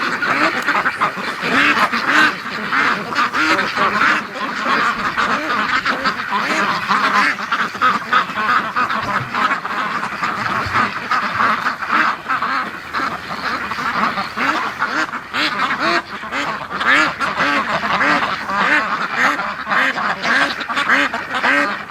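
A large flock of white Pekin ducks quacking constantly, many birds calling at once and overlapping.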